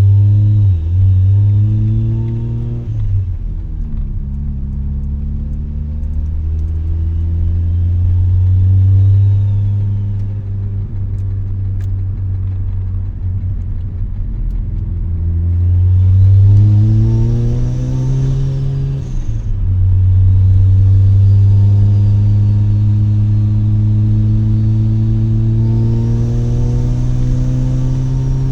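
Mazda RX-7 rotary engine through an RE Amemiya Dolphin Tail 90 Curl exhaust, heard from inside the cabin with the windows down, pulling through the gears. The pitch climbs under load, drops sharply at a shift about three seconds in and again near the twenty-second mark, eases off around ten seconds, then climbs steadily again toward the end.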